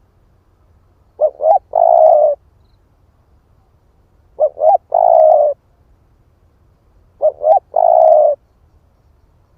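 Spotted dove cooing: three calls about three seconds apart, each two short notes followed by a longer coo.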